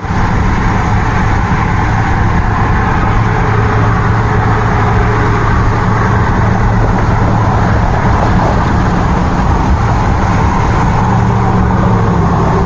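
Motor vehicle running steadily: a loud, even engine drone with road noise, unchanging throughout.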